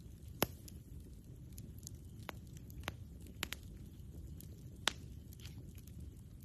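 Wood campfire crackling, with scattered sharp pops over a low steady rumble. The loudest pops come about half a second in and just before five seconds.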